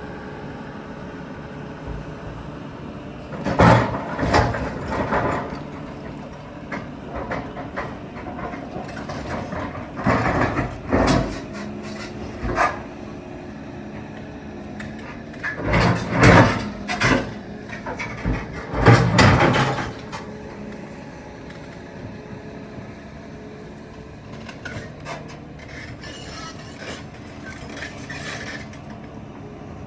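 A Volvo EC380EL excavator's diesel engine runs steadily while rocks are loaded. Four times, a cluster of loud crashes and clanks of rock on steel lasts a second or two, with fainter knocks near the end.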